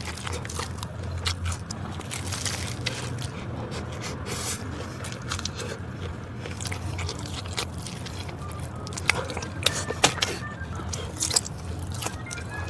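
Close-miked eating sounds: a person biting and chewing crunchy food, with irregular sharp crackles and clicks throughout.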